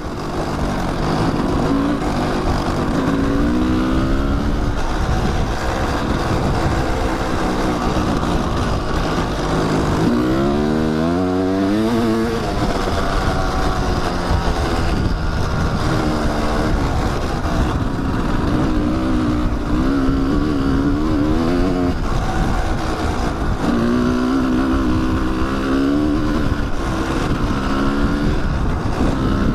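Kawasaki dirt bike engine under way on a dirt trail, its revs climbing and dropping again and again as the rider works the throttle and gears. The strongest climb comes about ten seconds in.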